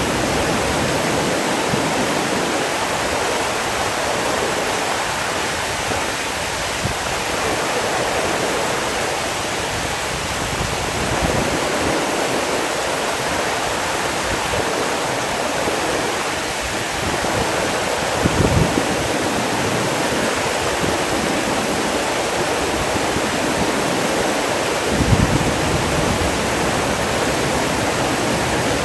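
Steady rush of flowing water, like a waterfall or fast stream, with two brief low bumps about two-thirds of the way through and near the end.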